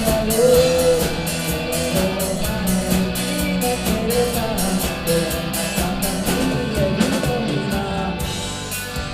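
Rock band playing live: a singing voice over electric guitar, bass and drum kit in a J-rock cover. The drum and cymbal hits thin out about eight seconds in as the music gets sparser.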